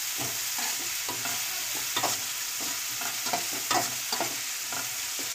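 Onions, tomatoes and green chillies sizzling in hot oil in a metal kadai, with a metal spoon scraping and clinking against the pan as they are stirred, about two strokes a second.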